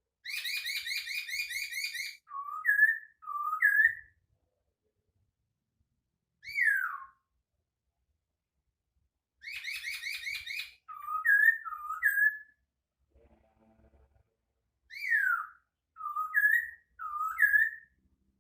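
A caged poksay hongkong laughingthrush singing in bouts. Each bout is a fast rattling trill followed by loud, clear whistled notes that swing between low and high, with single downslurred whistles and pauses of a few seconds in between.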